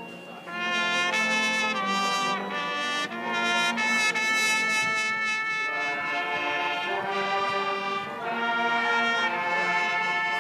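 Marching band brass section playing loud sustained chords, with trumpets and trombones to the fore. It comes in strongly about half a second in after a softer passage, and the chords change every second or so.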